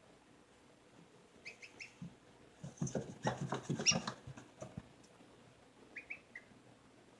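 Baby birds peeping in short, high notes, a few near the start and a few near the end, with a spell of rustling and scratching clicks in the middle.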